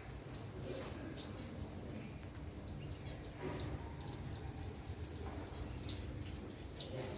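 Small birds chirping in short, high, repeated notes, some in quick runs, over a steady low background rumble.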